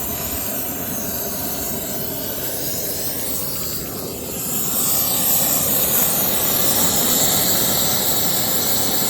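Gas cutting torch burning with a steady rushing hiss while cutting through an excavator track chain link; the hiss grows louder and brighter about four and a half seconds in.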